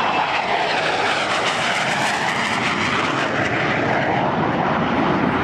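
Lockheed F-117 Nighthawk making a flyby, the steady rush of its two turbofan engines with a slow sweeping, phasing quality as it passes overhead.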